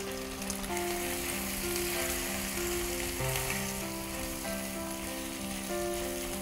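Pork slices and freshly added onion frying in a skillet with a steady sizzle, under soft background music of slow held notes.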